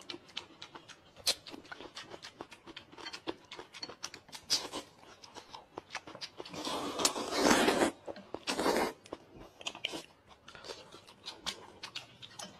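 Close-miked eating: chewing and crunching with many small wet clicks, and two louder noisy stretches about two-thirds of the way through.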